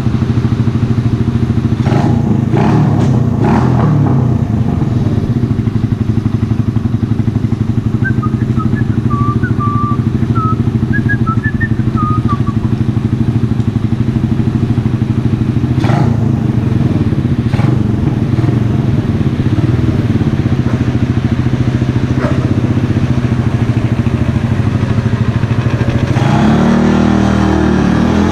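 Mash Café Racer 125cc engine, a single-cylinder, running through an aftermarket Megaton exhaust at a steady idle with a few sharp clicks. Near the end it revs up, its pitch rising.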